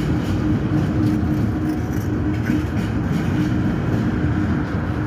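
Train cars rolling past directly below, a loud steady rumble of steel wheels on the rails with a steady hum running under it and faint scattered clicks.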